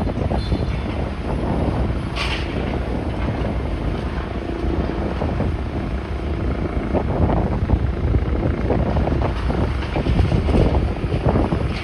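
Wind buffeting the microphone: a steady, uneven low rumble, with a brief hiss about two seconds in.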